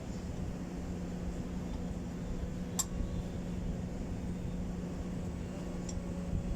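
Steady low mechanical hum with a constant pitch, broken by two short sharp clicks, one about three seconds in and one near the end.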